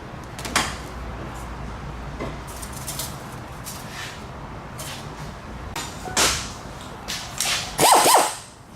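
Scattered clinks and knocks of metal tools, with a short, loud wavering squeal near the end.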